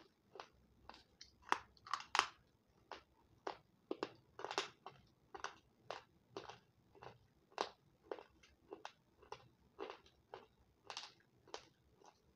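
A person chewing and biting crunchy, brittle white chalk-like pieces: a steady run of short crunches about twice a second, with a cluster of louder crunches around two seconds in.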